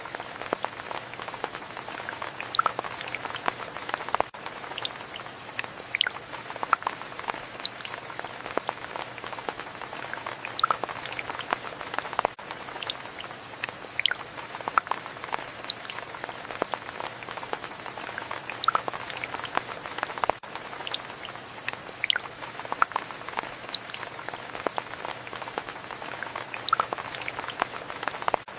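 Rain falling: a steady hiss with many irregular drips and patters.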